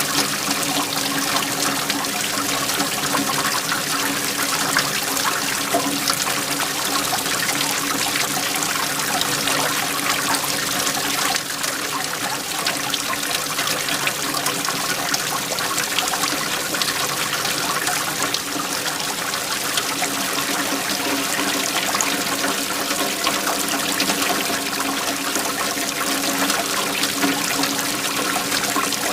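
Waterfall: a steady, unbroken rush of flowing and falling water.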